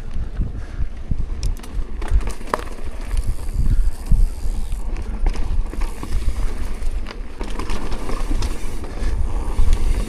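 Wind buffeting the microphone while travelling, an uneven low rumble with scattered clicks and rattles.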